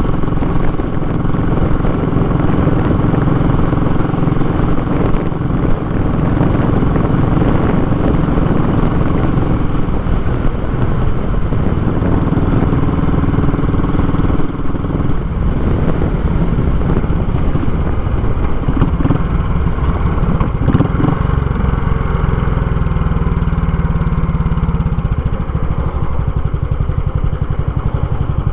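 Royal Enfield Classic 500's single-cylinder engine running loud through a short, raw exhaust while riding, its note shifting up and down a few times.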